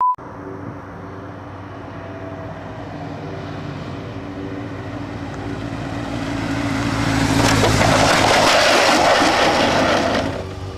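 Motorcycle engine running steadily, growing louder to a peak about seven seconds in, then dropping away abruptly near the end.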